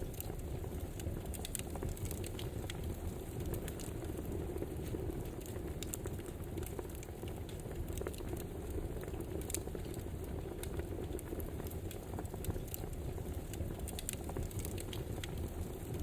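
Campfire burning: a steady low rushing noise with frequent small crackles and pops scattered irregularly through it.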